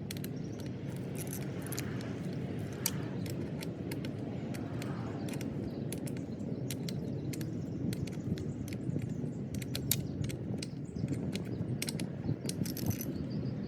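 Light metallic clicks and clinks of hand tools and small engine parts being handled, coming thicker in the second half, over a steady low background rumble.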